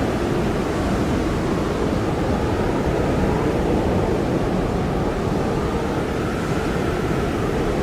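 Blizzard wind blowing hard and steadily, a dense, low rushing noise without gusts or breaks.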